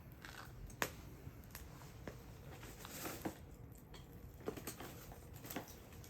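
Wood campfire crackling: irregular sharp pops and snaps over a low steady rumble, the loudest pop about a second in.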